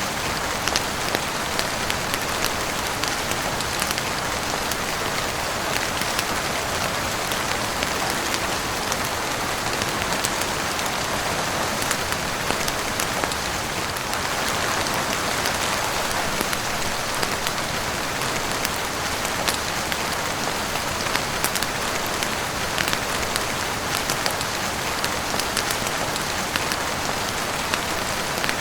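Heavy rain falling steadily on a roof and windows, an even hiss with many scattered sharp little ticks.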